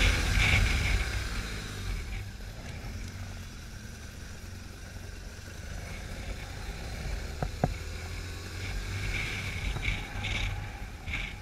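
Car engine being driven hard around a tight pole course: loud at the start, then dropping away as the car pulls off, with short high squeals at the start and again near the end.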